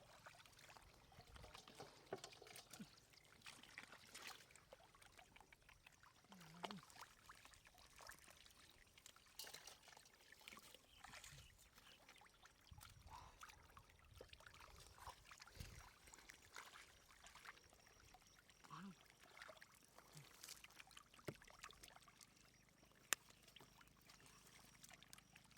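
Faint trickling and splashing of water with scattered small clicks, and one sharp click near the end.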